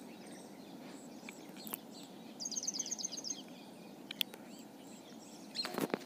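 Quiet background with a bird's quick run of high chirps about halfway through, and a few faint clicks, the last ones louder near the end, from the plastic quick-connector of a washing machine inlet hose being handled and pushed onto the tap adapter.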